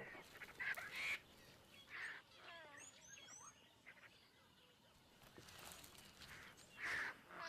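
Faint outdoor ambience with scattered bird calls, including a quick run of small high chirps about three seconds in.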